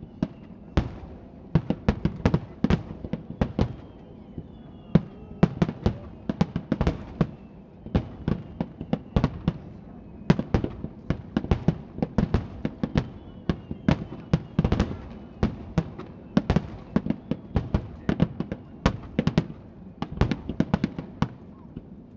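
Aerial fireworks going off in a dense, continuous barrage: sharp booms and crackling reports, several every second, with faint falling whistles now and then.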